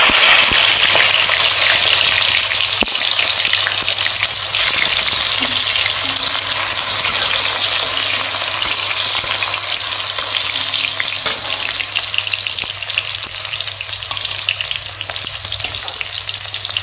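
Chopped tomatoes sizzling in hot mustard oil in a metal kadai, just tipped into the pan. The sizzle is loudest at first and slowly eases, with a steel spatula scraping and tapping the pan as it stirs.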